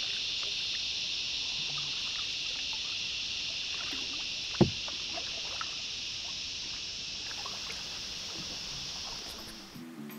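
Steady high-pitched drone of an insect chorus. There is one sharp knock about four and a half seconds in, and the drone cuts off suddenly near the end.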